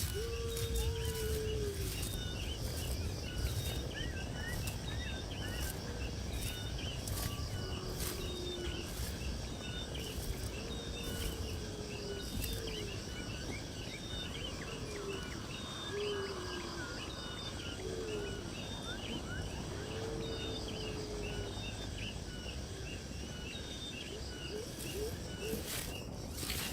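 Outdoor birdsong: many short, high chirps repeating throughout, with lower sliding calls now and then over a steady low background noise.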